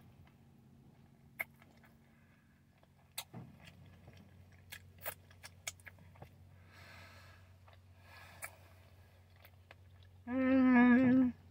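Faint chewing of a soft tortilla chicken wrap, with scattered small wet mouth clicks. Near the end, a hummed "mmm" with the mouth closed, held steady for about a second.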